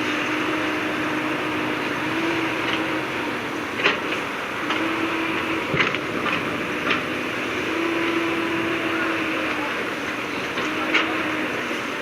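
Heavy diesel earthmoving machinery running steadily, with a hum that swells and fades every couple of seconds as it works, and a few sharp knocks of metal or rock.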